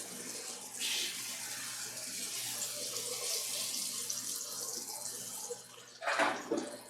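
Flour-dredged chicken breasts frying in hot clarified butter and olive oil, sizzling steadily. A brief louder noise breaks in about six seconds in.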